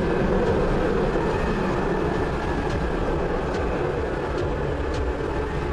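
Ekranoplan's jet engines running with a steady, deep rumble.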